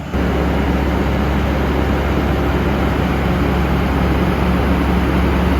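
Heavy truck's diesel engine running steadily at a constant low pitch, with road noise.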